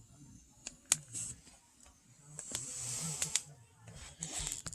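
Firewood burning with irregular sharp crackles and pops, and a brief hissing rustle of the fire about halfway through.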